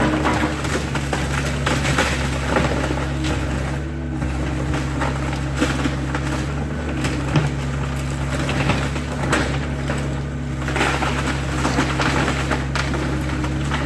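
Excavator's diesel engine running steadily while the machine crushes and breaks dry wooden garage debris, with continuous crackling and splintering and occasional sharper cracks.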